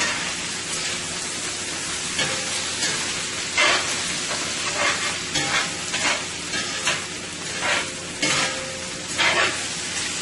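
Sliced chicken with garlic, ginger and scallions sizzling steadily in a 14-inch skillet as it is stir-fried, with irregular stirring strokes of a utensil scraping and tossing the food against the pan every second or so, two of them louder, about four seconds in and near the end.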